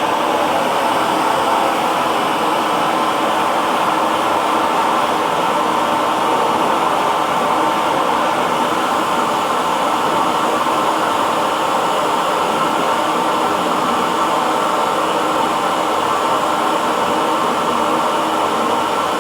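Hair dryer running steadily: an even, unbroken rush of blown air with faint steady tones from its motor.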